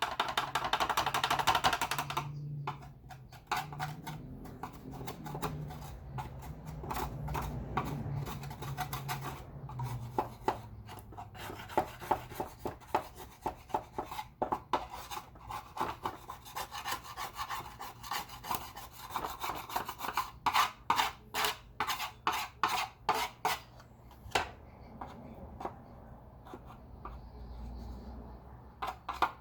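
Repeated scraping, rubbing and clicking of hard plastic as vacuum cleaner parts are worked on by hand, with a louder stretch of scraping in the first two seconds.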